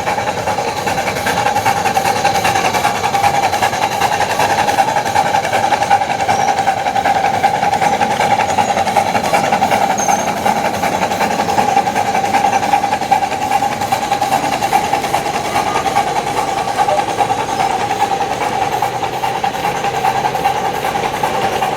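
Model train running steadily along the layout's track, a continuous even mechanical running sound.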